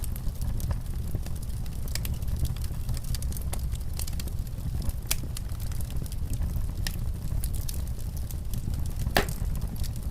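Wood fire crackling in a fireplace: scattered sharp pops and snaps over a low steady rumble, with one louder pop near the end.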